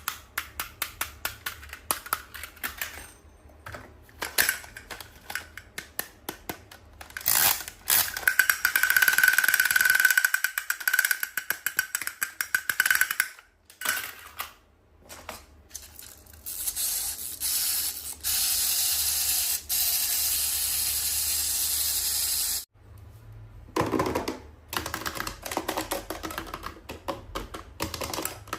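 Close-up clicking, tapping and crinkling of toy packaging being handled and opened, in quick irregular taps. About eight seconds in, a longer rustling hiss with a steady whistle-like tone runs for some five seconds. From about eighteen seconds in, an even, steady hiss lasts around five seconds and cuts off suddenly.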